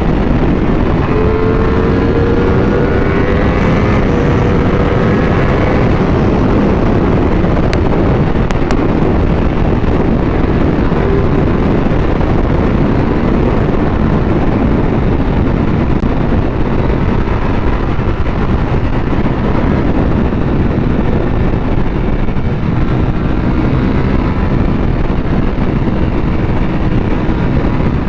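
Ducati Panigale V4 sportbike with its Euro 5 exhaust running under way, heavy wind noise buffeting the microphone. The engine note rises steadily from about a second in to about six seconds, then holds under the wind.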